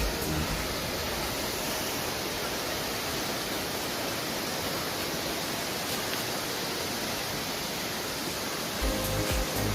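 Steady rushing roar of a large waterfall, with background music with a beat coming back in near the end.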